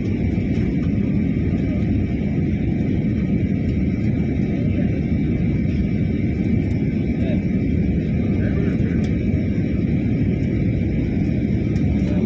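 Steady cabin noise of an airliner on its landing approach: a constant low rumble of engines and airflow with a thin, steady high whine over it.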